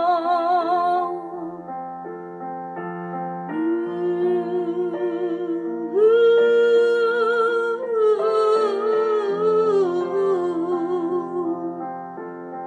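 Music: a woman's voice holds the last note of a line, then sings long wordless notes with vibrato over sustained electric piano chords.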